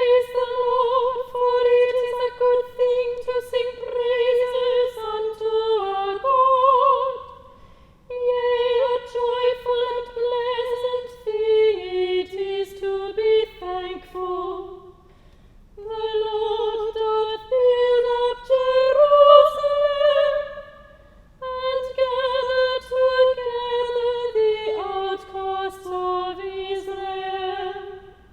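A solo soprano voice singing unaccompanied in long phrases, holding mostly one note and moving at the end of each phrase, with short breaths between, like a chanted psalm.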